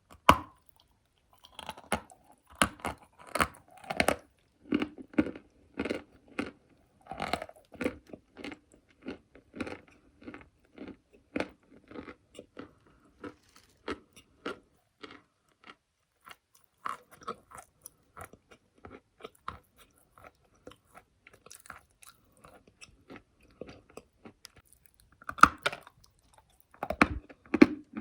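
Close-up biting and chewing of a dry, crunchy piece of chalk clay: rapid, irregular crunches that thin out and grow fainter midway, then turn loud again in the last few seconds.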